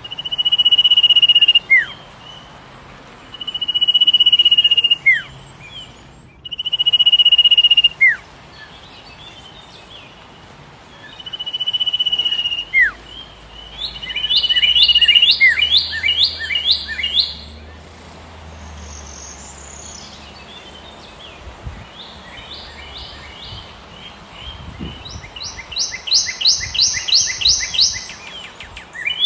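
Songbirds singing: a clear, level whistle held for about a second and a half and ending in a quick downward slur, repeated four times, followed by fast runs of rapidly repeated short notes in the second half.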